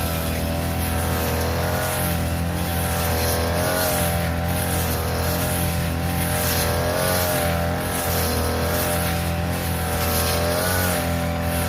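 Small petrol engine of a grass-cutting machine running at high speed while cutting overgrown grass, its pitch dipping and recovering about once a second as the blade takes the grass.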